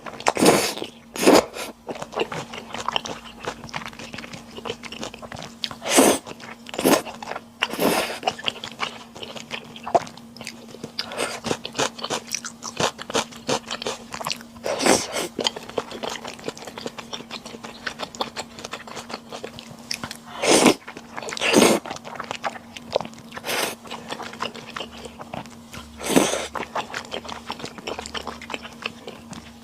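Close-miked mukbang eating: steady chewing and crunching of food, with sharper, louder bites every couple of seconds. A faint steady hum runs underneath.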